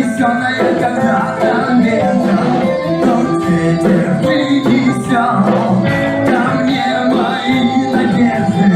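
A band playing a song, with singing over guitar accompaniment.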